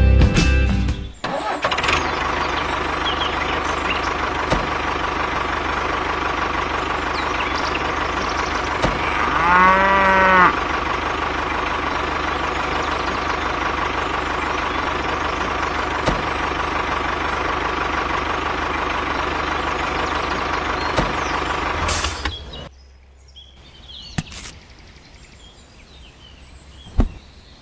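A motor runs steadily with a constant whine, and a cow moos once about ten seconds in. The motor stops suddenly near the end, leaving only a few faint clicks.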